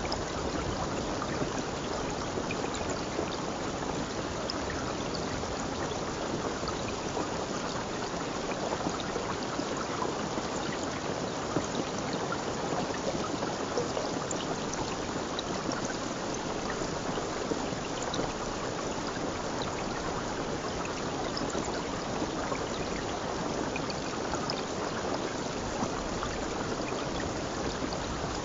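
Running water of a stream: a steady, even rush with small splashes scattered through it.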